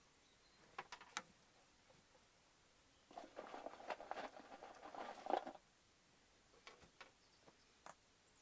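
Quiet handling noises: two light clicks, then about two and a half seconds of scratchy rustling, and a few soft ticks near the end.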